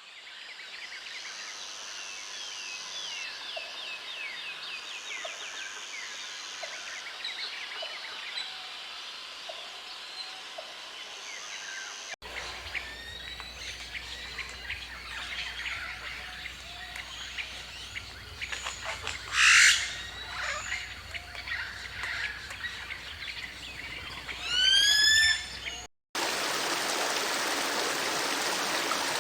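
Wild birds calling and singing, with one loud harsh call about nineteen seconds in and a quick run of rising whistled notes a few seconds later. Near the end the birds give way to the steady rush of running water.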